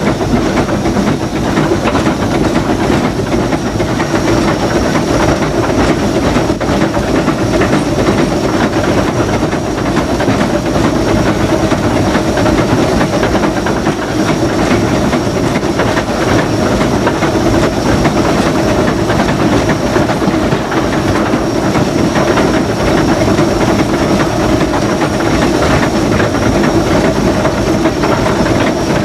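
Steam locomotive running, heard from inside the cab: a steady hiss of steam over the rattle and clatter of the engine and its wheels on the rails.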